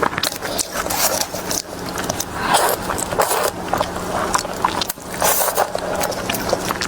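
Close-miked eating: food being chewed and crunched in a quick, irregular run of sharp clicks and crackles, over a steady low hum.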